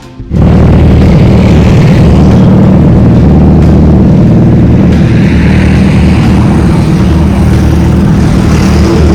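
Sport motorcycle engine running hard at steady high revs, very loud. It cuts in suddenly about a third of a second in.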